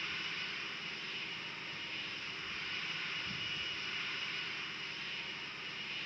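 Jet engines of a four-engine Airbus A340 airliner making a steady rush with a faint high whine in it.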